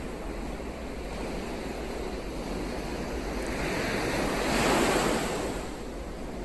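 Ocean waves washing ashore: a steady rush of surf, with one wave swelling and breaking loudest about five seconds in before falling back.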